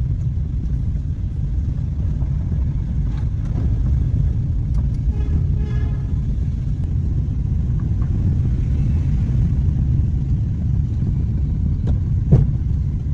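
Car engine running with a steady low rumble, with a short pitched sound about halfway through and a single knock near the end.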